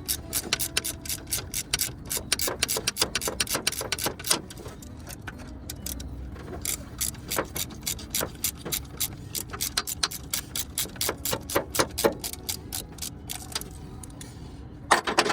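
Hand ratchet wrench clicking in quick strokes as a bolt is turned, in runs with a short pause partway through, then a louder clatter near the end.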